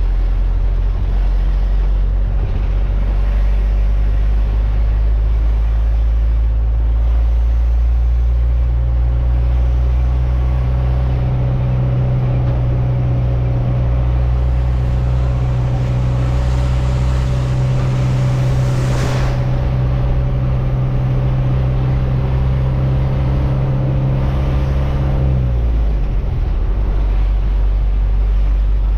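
Truck engine running steadily on the road, a low, even drone whose pitch drops near the end. A short rushing sound passes about two-thirds of the way through.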